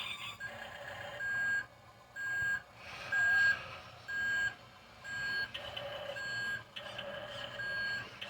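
Dump truck's reversing alarm beeping at a steady pitch about once a second, over the low hum of the truck's engine, as the truck backs up.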